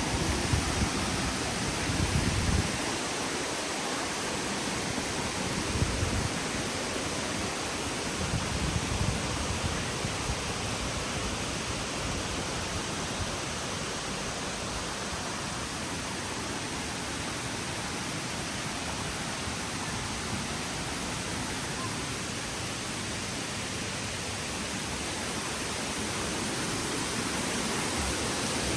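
Steady rush of falling and flowing water from a waterfall cascade, an even hiss with no pauses. A few louder low rumbles come in the first ten seconds.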